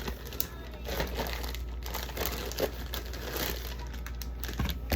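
Irregular rustling and crinkling of packaging as cucumbers are handled and sorted by hand.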